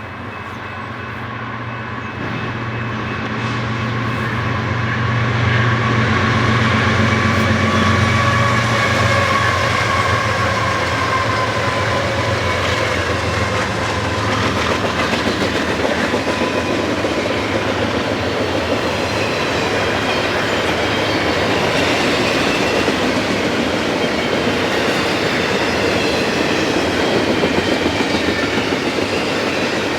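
A train passing close by: it grows louder over the first several seconds, with a low engine hum that fades about a third of the way in. Then comes a steady rumble and clatter of cars rolling over the rails.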